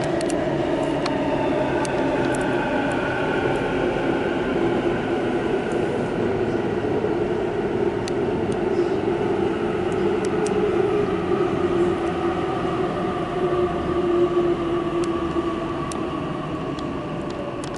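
Sydney Trains Waratah B-set electric train pulling into the platform, its motors whining in several tones that fall slowly in pitch as it brakes, fading near the end.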